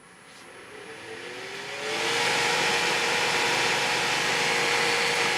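Variable-speed wood lathe switched on and spinning up: a rising motor whine climbs for about two seconds, then settles into a steady hum with the whir of the spinning wooden spindle blank.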